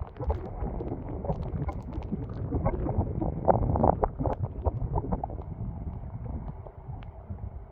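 Storm-force wind buffeting the microphone, with a dense irregular patter of short knocks that is busiest a few seconds in.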